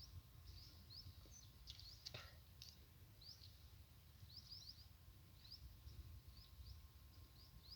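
Near silence, with faint short bird chirps repeated every half second or so over a low rumble.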